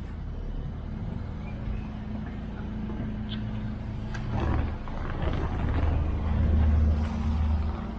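Boat engine running steadily with a low hum, and a louder rushing noise that swells in the second half.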